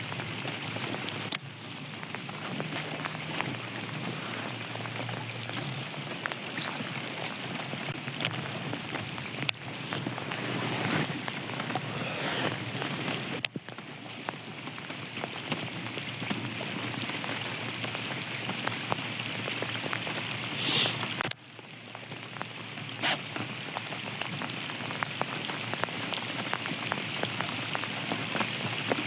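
Steady rain pattering, with scattered small clicks and knocks.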